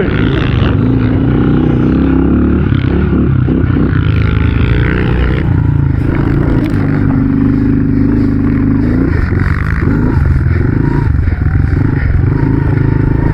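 Small single-cylinder four-stroke engine of a 110cc pit bike running under throttle while riding through snow, its pitch rising and falling as the throttle changes.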